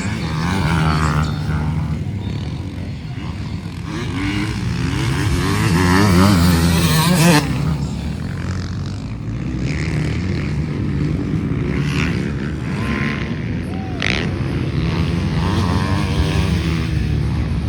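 Several motocross motorcycles racing, their engines revving up and down as they pass, loudest about six to seven seconds in.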